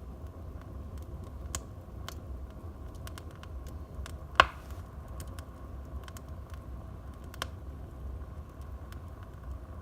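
Wood fire in a fireplace crackling, with irregular small snaps over a low steady rumble of the burning. One sharp loud pop about four and a half seconds in.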